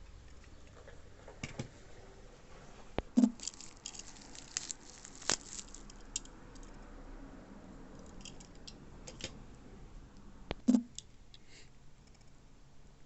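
Hands handling small objects and packaging: scattered light clicks, taps and rustles, with two louder knocks, one about three seconds in and one near the end.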